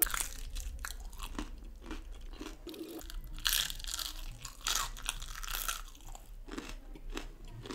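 Biting and chewing of a deep-fried, cornflour-coated mutton crunchy momo: a run of irregular crunches, loudest about three and a half to six seconds in.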